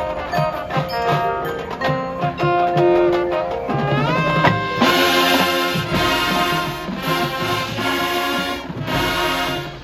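Marching band playing a brass-led halftime show. About four seconds in, the brass slide upward in pitch into a louder, fuller full-band passage.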